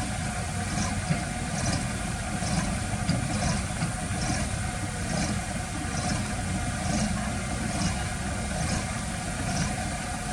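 Heavy diesel engine of earthmoving machinery running steadily at low revs, with a faint high tick repeating about once a second.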